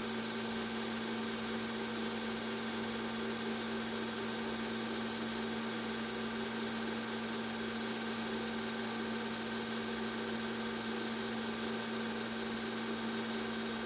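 Steady machine hum at one fixed pitch that never changes in speed or loudness.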